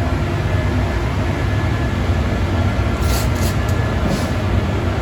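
Steady rumble of a paint spray booth's fans and heater running, with a few brief high hisses about three seconds in.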